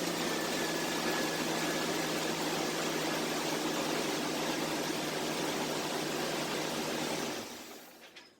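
Jeep Cherokee XJ engine running steadily just after starting, with a faint slowly falling whine over it; the sound dies away near the end.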